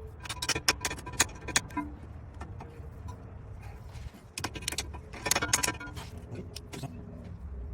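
Metal tools and parts clinking and rattling in two bursts of sharp, ringing clicks, about half a second in and again about four and a half seconds in.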